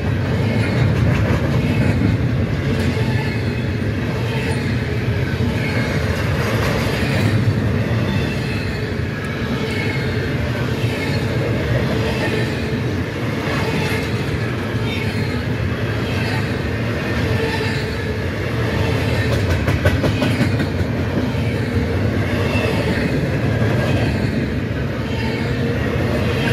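Double-stack intermodal freight cars rolling past close by: a steady rumble of steel wheels on rail with clickety-clack over the rail joints and faint high wheel squeal at times.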